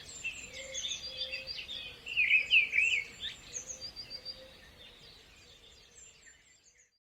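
Several songbirds chirping and singing in quick whistled notes that slide up and down, loudest a couple of seconds in, then fading out toward the end.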